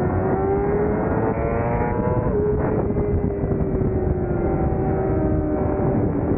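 600cc race motorcycle engine pulling hard, its pitch climbing, with an upshift about two seconds in that drops the revs. It then runs on at a steady, slightly falling pitch.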